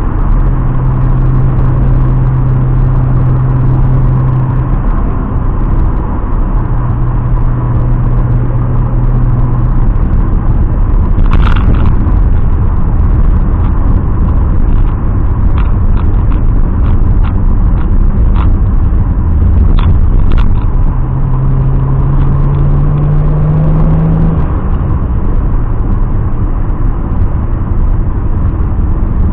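Turbocharged BMW E30 M20B27 straight-six engine running under way with a constant low rumble. Its note holds steady for stretches and rises in pitch about three-quarters of the way through as it accelerates, and a series of sharp clicks or knocks comes midway.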